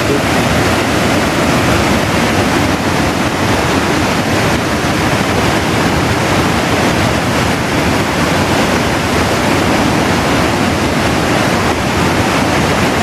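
Swollen river in flood pouring over a weir: a loud, steady rush of fast water, with no pauses or separate events.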